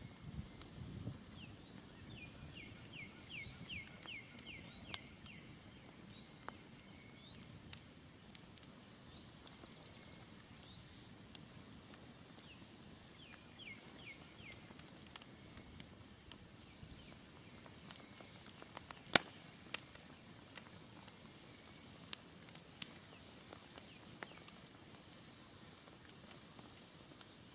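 Smoldering campfire giving off scattered sharp crackles and pops over a faint hiss, with one louder pop about 19 seconds in. A songbird twice sings a quick trill of repeated high notes, near the start and again about 13 seconds in.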